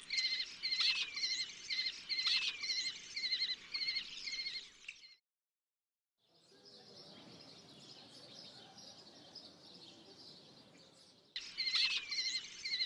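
Background nature ambience: a bird repeating a short chirping call about twice a second. About five seconds in it cuts out for a second, a quieter steady rural hum and hiss follows, and the chirping returns near the end.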